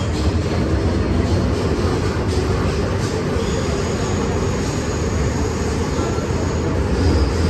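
MTR Island Line M-Train running at speed, heard from inside the car: a steady heavy rumble of wheels on track and traction equipment. A thin high whine from the traction motors rises above it for a few seconds in the middle.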